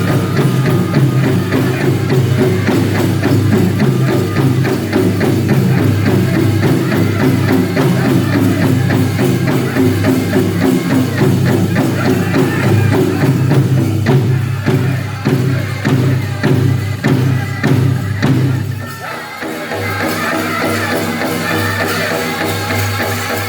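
Powwow drum group singing in chorus over a steady beat on a big drum. The beat comes through as sharper separate strikes for a few seconds, then the sound drops back somewhat about three-quarters of the way in.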